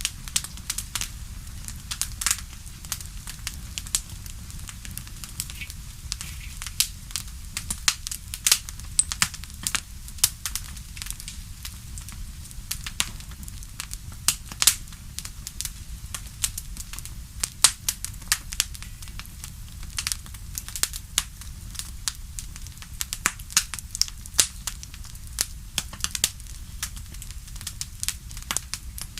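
Fire in a fireplace crackling: many irregular sharp pops and snaps, several a second, over a low steady rumble of the flames.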